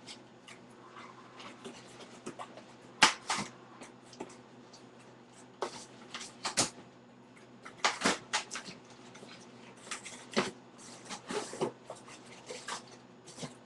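Irregular rustling and knocking of a cardboard shoebox and its contents being handled, the loudest knock about three seconds in, over a faint steady hum.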